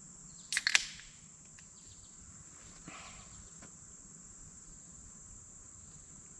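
A drink can cracked open about half a second in, a sharp snap and hiss, foaming over, with a fainter fizz a couple of seconds later. Insects buzz steadily in the background.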